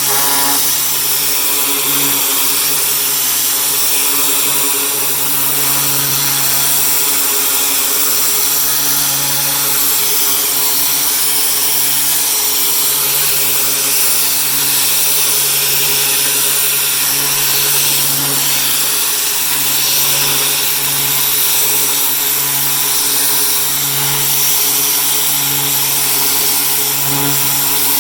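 Pressure washer running steadily: a constant machine drone under a continuous high hiss of spray.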